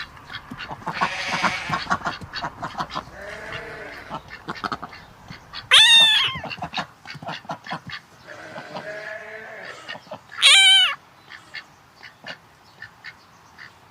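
Goats bleating: two loud bleats with a trembling, wavering pitch about six and ten seconds in, with quieter calls and short clicks between them.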